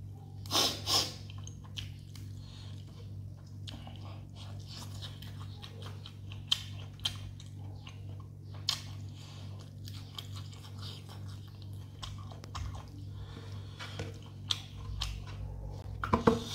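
A person chewing a mouthful of rice, chicken and raw greens close to the microphone: irregular wet smacks and small crunches, with a louder pair of bites about half a second in and another near the end. A steady low hum runs underneath.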